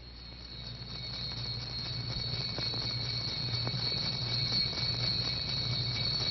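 Old film soundtrack noise: a steady low hum and a thin high-pitched whine over hiss, slowly growing louder, with no music or speech yet.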